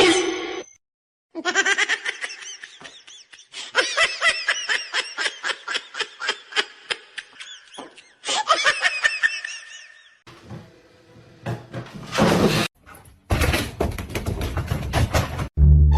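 A person laughing in quick repeated bursts for several seconds, then a loud rushing noise in two spells near the end.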